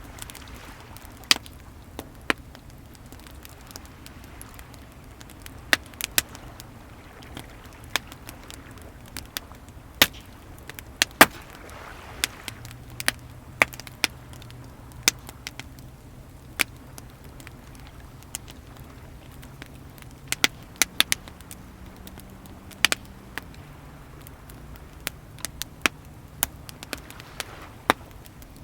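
Wood fire crackling with frequent sharp pops and snaps over a steady wash of sea waves that swells now and then. A faint low hum comes in about twelve seconds in, rising in pitch for a few seconds and then dropping back.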